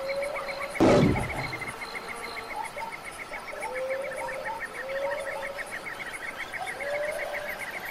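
Nature ambience: insects chirping in a fast, steady pulse, with short rising animal calls repeated every second or so. A loud, short, rough blast comes about a second in.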